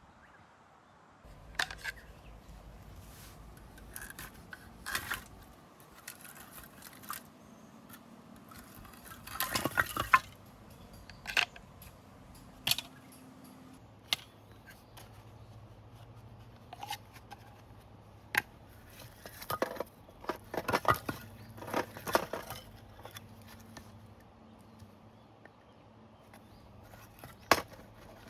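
Camping gear being handled: irregular clinks and knocks, with denser rattling about ten seconds in and again around twenty to twenty-two seconds.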